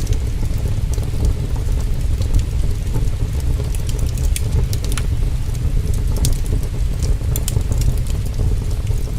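Heavy rain and wind making a steady, deep rumble, with a log fire's crackles and pops scattered over it.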